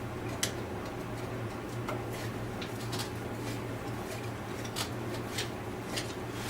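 Scattered light clicks and taps of a screwdriver and small metal parts being handled while the through-screws of a tractor starter motor are undone, over a steady low hum.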